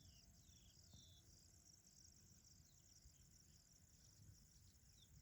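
Very faint, steady chirring of crickets, with a few short falling chirps in the first second or so.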